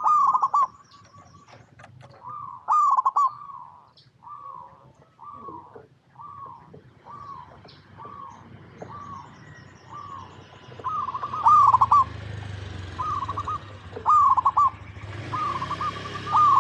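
Zebra doves (perkutut) cooing: a run of short, downward-bending coos about two a second, broken a few times by louder clusters of quicker notes. A hiss comes up near the end.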